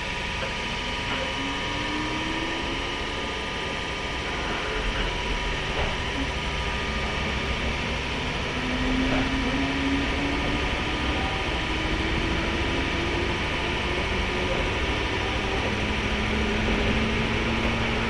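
Running sound inside a 103 series electric motor car (MoHa 102): a steady rumble of wheels on rail under the whine of its MT55 DC traction motors. The whine rises in pitch twice as the train gathers speed.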